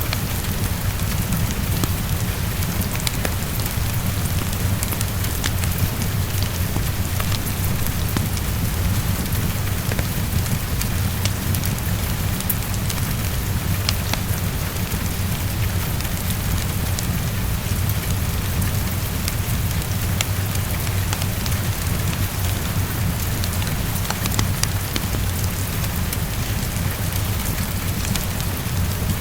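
Steady heavy rain against a window, mixed with fireplace crackle: scattered sharp clicks over a constant wash of rain, with a deep low rumble underneath.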